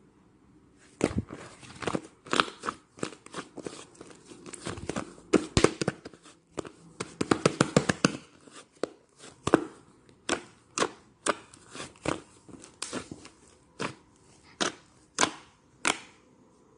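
Slime being pressed and worked by hand, making sharp popping clicks as air pockets burst: a dense run of pops at first, then single pops about every half second.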